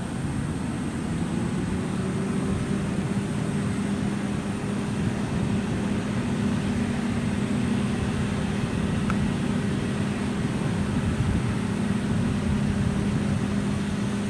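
Airbus A321neo's Pratt & Whitney PW1100G geared turbofan engines running steadily while the airliner taxis: a constant low hum with a higher tone above it, over a wash of engine noise.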